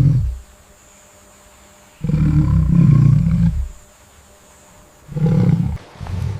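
A large animal roaring in deep, rough calls: the end of one roar at the start, a long roar of about a second and a half in the middle, and two short ones near the end.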